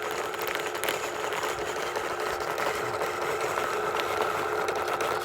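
Electric motor and gears of a 1/18-scale RC truck whining at a steady pitch as it crawls up a dirt hill.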